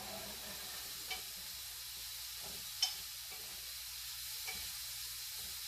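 Chicken breast sizzling in a frying pan: a steady hiss, with a few light clicks.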